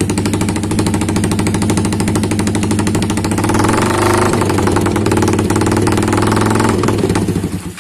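Yamaha Vixion's 150 cc single-cylinder four-stroke engine running through an open racing exhaust tuned for a choppy 'helicopter' beat. It rises a little in the middle, then is switched off near the end.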